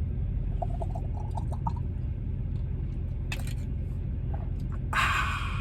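Steady low rumble of an idling engine, with a sharp click about three and a half seconds in and a short rush of noise near the end.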